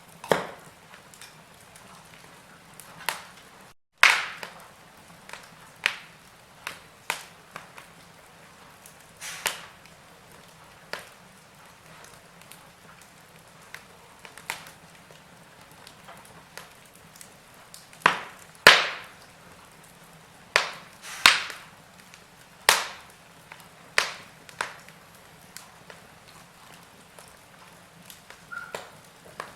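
Wood fire in a fireplace crackling, with irregular sharp pops and snaps over a faint steady hiss. The sound drops out for an instant just before four seconds in, and a cluster of louder pops comes in the second half.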